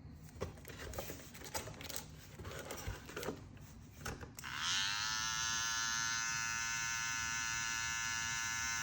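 Small handling clicks and rustles, then about four seconds in a StyleCraft Saber 2 cordless hair clipper switches on. Its motor winds up quickly to a steady high-pitched whine and keeps running.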